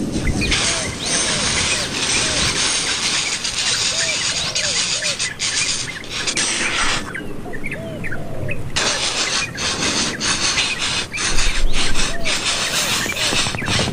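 Birds at a nest chirping: short arching call notes repeated every half second or so, over a steady outdoor hiss with scattered clicks.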